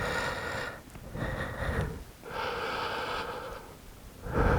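A man breathing heavily: three long breaths, each about a second.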